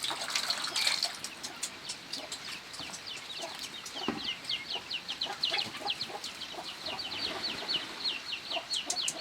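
Chickens clucking, with a fast run of short, high, falling cheeps several times a second.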